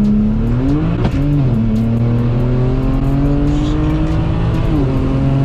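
BMW 335i's N54 twin-turbo inline-six, fitted with upgraded turbos, at full throttle, pulling hard from a 40 mph roll, heard from inside the cabin. The engine pitch climbs, drops with an upshift about a second in, climbs again and drops with a second upshift near the end.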